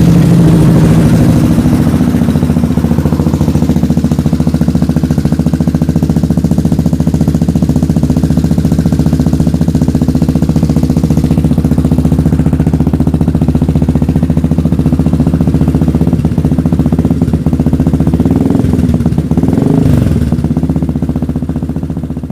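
Yamaha Byson FI single-cylinder motorcycle idling steadily through a Nobi Neo stainless-steel full-system aftermarket exhaust, with a short rise in engine speed a little before the end.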